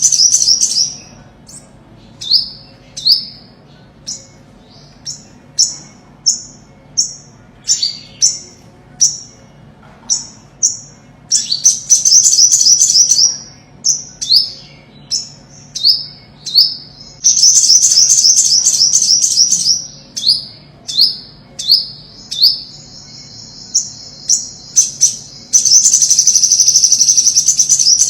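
Olive-backed sunbird (ornate sunbird) singing: high, fast trills lasting a second or two, four times, with single sharp chip notes about once a second in between.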